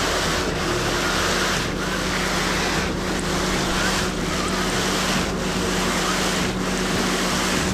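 Concrete pump running: a steady engine hum under a loud rushing noise, with a regular pulse about once every 1.2 seconds as the pump strokes.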